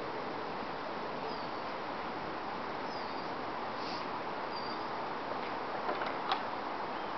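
Steady wind rustling through tree leaves, with a few short, faint high bird chirps and one sharp click about six seconds in.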